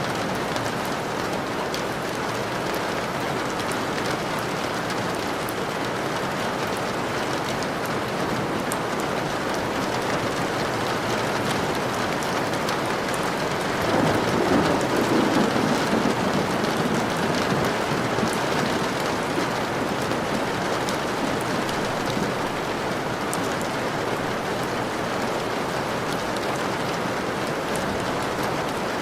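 Steady rain falling. About halfway through, a low rumble of thunder swells for a few seconds and fades back into the rain.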